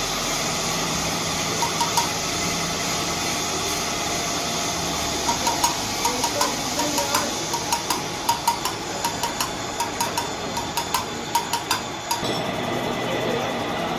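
Quick, irregular light taps and clinks of metal on metal, with a short ringing note, over a steady background noise. The tapping starts about five seconds in and stops about two seconds before the end.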